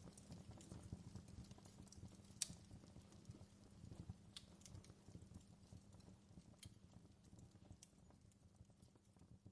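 Near silence: faint room tone with a low rumble and a few sparse, soft clicks, fading toward the end.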